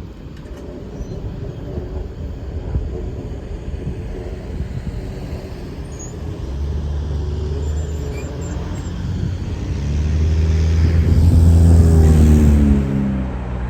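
A heavy engine passes close by over continuous rumbling. A low hum builds over several seconds, is loudest near the end, then drops in pitch as it goes past.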